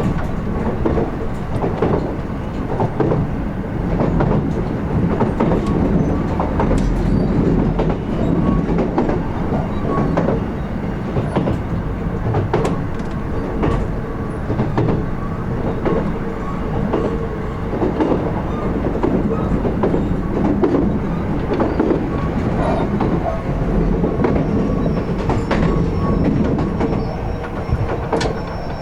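Kintetsu 16600 series electric train running on jointed rail, heard from the car end. A steady rumble of wheels and running gear carries a repeating clickety-clack as the wheels cross the rail joints, over a faint steady hum.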